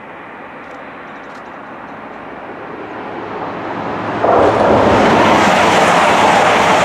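A Class 222 Meridian diesel multiple unit approaching at speed. Its rushing engine and wheel noise grows steadily, then jumps suddenly to a loud, sustained roar about four seconds in as the train reaches and passes close by.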